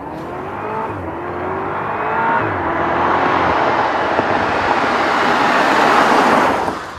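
BMW Alpina B6 Gran Coupe's twin-turbocharged 4.4-litre V8 accelerating hard, its pitch rising in steps as it shifts up, under tyre and road noise that grows steadily louder and then cuts off just before the end.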